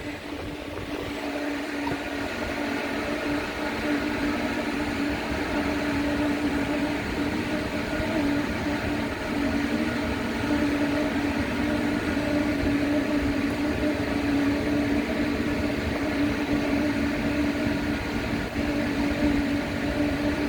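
Steady machine hum with a low droning tone and a fainter higher one, from the CNC plasma cutting setup's equipment while it stands by during laser alignment, not yet cutting.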